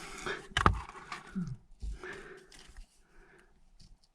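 Scraping, rustling and knocking of a person clambering through a narrow rock mine passage, with a sharp knock about half a second in and a dull thump near two seconds.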